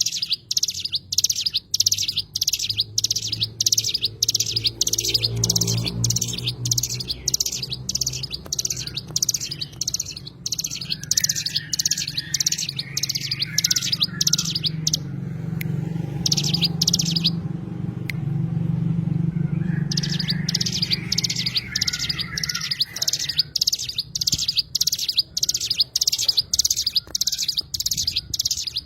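A cigun songbird calling a fast, even run of sharp, high chirps, about two a second, with a short pause about two-thirds of the way through. A low rumble runs underneath through the middle.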